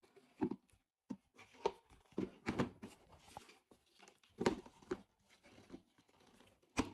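Irregular knocks and rustles of cardboard game pieces and paper being taken out and handled, about a dozen short sounds of varying loudness.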